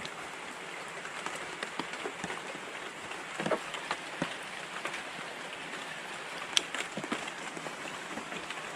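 Light rain, a drizzle, falling steadily, with scattered small ticks of drops striking nearby surfaces.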